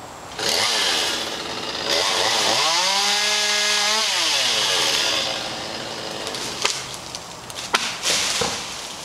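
Chainsaw cutting a small tree limb: the engine revs up, holds at full speed for about a second and a half, then drops back toward idle. A few sharp knocks follow near the end.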